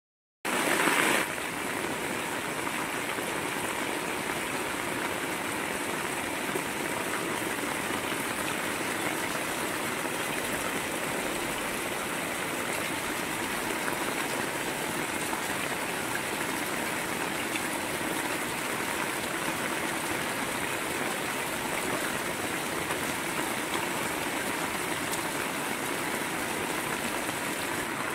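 Heavy rain falling steadily, with runoff gushing off a corrugated roof edge onto the flooded ground. The rush is briefly louder about a second in.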